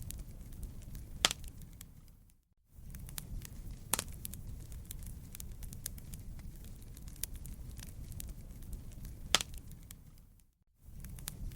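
Wood fire in a fireplace crackling over a steady low rumble of flames, with scattered sharp pops. The sound briefly fades out to silence twice, about two and a half seconds in and near the end, then comes back.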